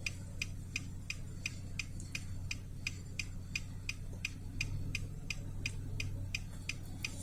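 Steady rapid ticking of a car's turn-signal or hazard flasher, about three clicks a second, over a low steady hum.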